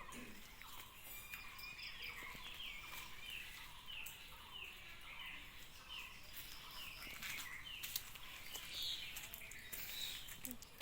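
A bird chirping faintly and repeatedly, a short falling note about one and a half times a second, over a faint outdoor hiss.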